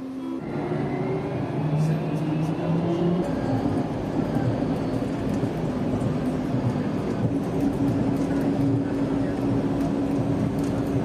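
Automated people-mover train (DFW Skylink) pulling away: its motor whine rises in pitch over the first few seconds, then settles into a steady running hum and rumble with light clicks and rattles.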